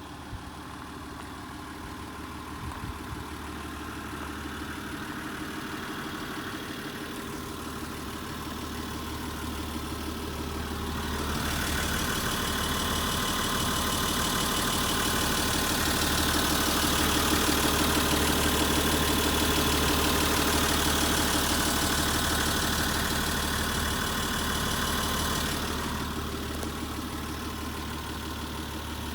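Nissan Civilian bus's TD42 straight-six diesel idling steadily. It grows louder and brighter from about eleven seconds in, then falls back a few seconds before the end.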